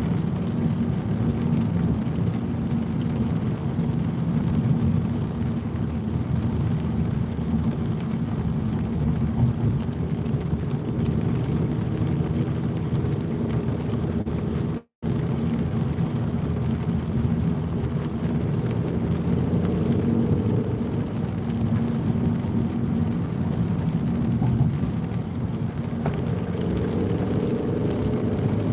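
Steady low rumble of city traffic in the rain. It cuts out completely for an instant about halfway through.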